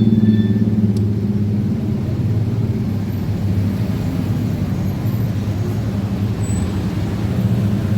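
A small engine running steadily at idle: an even low hum with a rapid, regular pulse, easing slightly in level after the first second.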